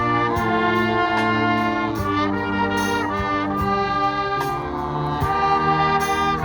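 Youth wind band playing: brass and woodwinds holding full chords that change every second or so, over regular percussion strikes.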